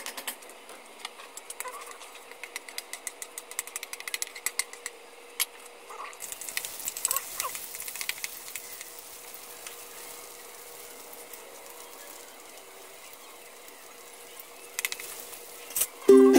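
Metal spatula and utensil clicks and taps on a wok for the first few seconds. Then, about six seconds in, a steady sizzle of meat pieces frying in hot oil in the wok. Ukulele music comes in just before the end.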